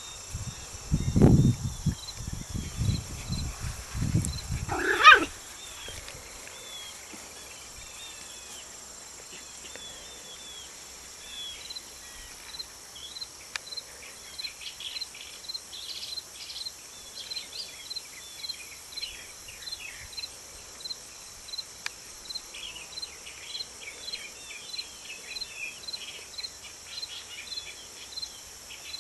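Dogs growling at play in a few loud, low, rough bursts over the first five seconds, ending with one high yelp. After that, short high chirps repeat over a steady high insect hum.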